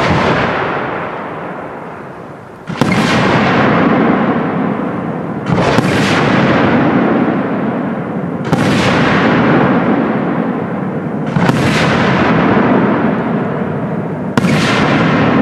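Aerial firework shells bursting one at a time, five sharp bangs about every three seconds. Each bang is followed by a long rolling echo that fades away before the next.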